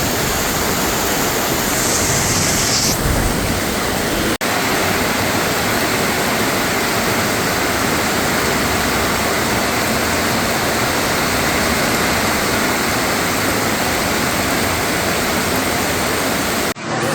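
Heavy rain pouring down with running water: a steady, loud hiss that breaks off for an instant about four seconds in.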